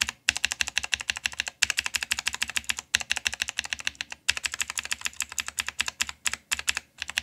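Blue mechanical keyboard switches lubed with Nivea hand cream, some keys once and some three times, pressed rapidly over and over. The clicks come in runs of about a second each, split by brief pauses.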